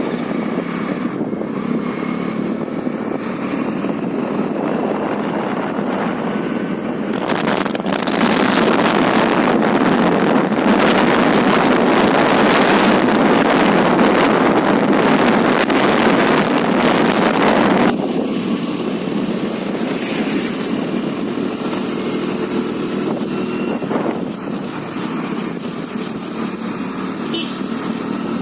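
Honda Dio scooter on the move: steady engine and road noise, with a louder rushing noise for about ten seconds in the middle.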